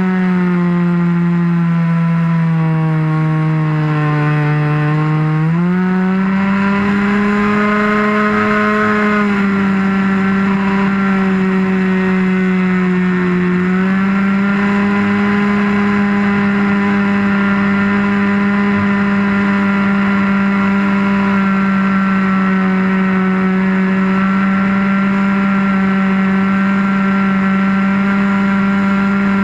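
RC model airplane's engine running in flight, heard from a camera mounted on top of the wing. Its pitch sags over the first few seconds, climbs sharply about five seconds in, dips slightly, then rises again about fourteen seconds in and holds steady.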